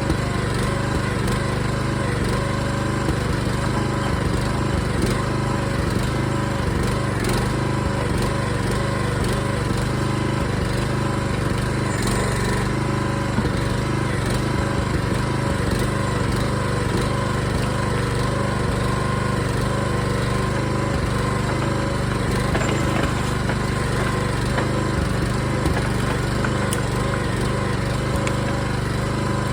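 Small gasoline engine of a Harbor Freight backhoe running steadily, with a few faint knocks.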